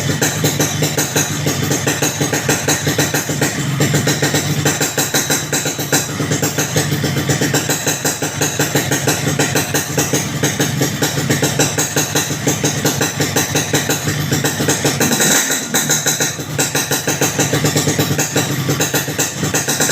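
Motorcycle fitted with an Alteck C17 aftermarket exhaust and filter, running with a loud, rapid, even exhaust pulse that eases briefly about fifteen seconds in.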